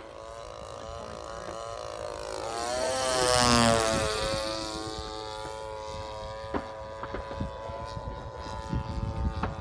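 Radio-control model airplane flying past: its engine note swells to a peak about three and a half seconds in, then drops slightly in pitch and fades to a steady hum in the distance.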